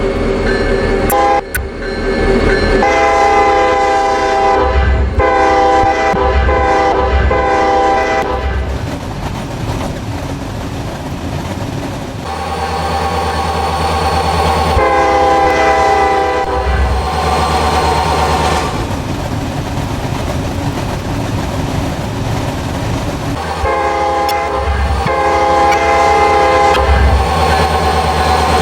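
Kansas City Southern freight train's diesel locomotive sounding its air horn in repeated blasts over the low rumble of the engine and rolling cars.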